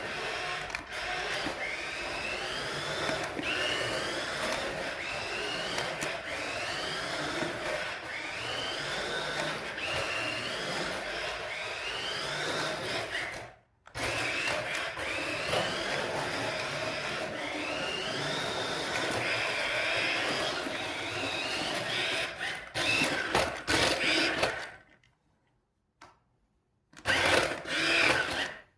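Small electric motor of a 1:14-scale toy RC drift car whirring, its whine rising in pitch over and over, about once every second and a half, as the throttle is pulsed. It cuts out for a moment near the middle, stops near the end, then gives two short bursts.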